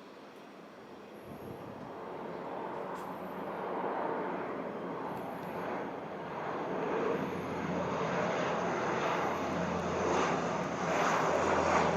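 Antonov An-12's four turboprop engines and propellers droning as the aircraft approaches, growing steadily louder, with a low propeller hum coming up in the second half.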